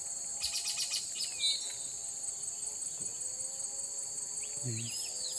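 Steady high-pitched insect drone from the forest, with short bird chirps and a quick run of chips about a second in and again near the end.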